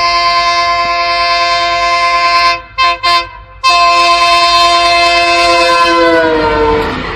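Train horn sounding long blasts, broken after about two and a half seconds by two short toots, then blowing again. Near the end its pitch drops as the train passes, and the rumble of the train on the rails takes over.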